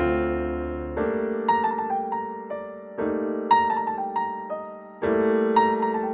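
Background music: solo piano playing sustained chords about every two seconds with a light melody above.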